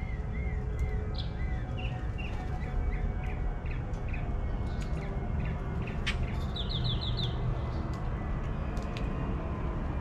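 Wild birds calling: a string of short whistled notes, two or three a second, through the first half, then a quick run of five higher, falling notes about seven seconds in, over a steady low rumble.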